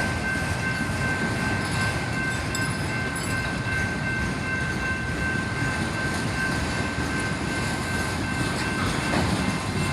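Freight train cars rolling past a road crossing: a steady rumble of wheels on rail with a faint steady high-pitched tone over it that fades out near the end.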